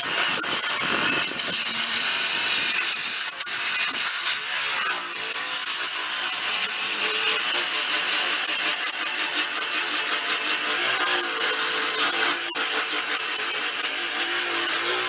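Electric buffer with a 50-grit sanding disc grinding body filler off a steel car door at low speed. It makes a continuous coarse scraping hiss, and the motor's hum rises and falls as the disc is pressed on and eased off.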